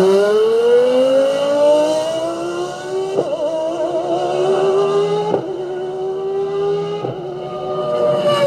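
Nissan Skyline R34 GT-T's turbocharged straight-six pulling hard, its pitch climbing steadily under acceleration, broken by three short sharp cracks about three, five and seven seconds in.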